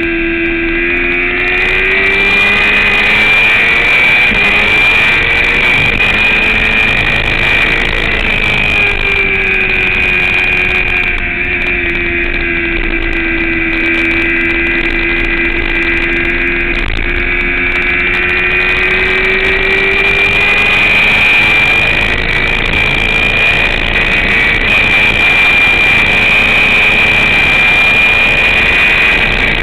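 Sport motorcycle engine running hard on a race track, its revs rising and falling slowly as the rider goes through the corners, over steady wind noise.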